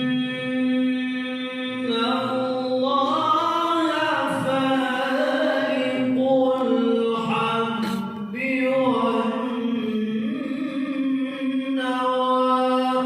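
A man reciting the Quran in a high, loud, melodic mujawwad style, drawing out one long ornamented phrase with many rising and falling turns on a single breath.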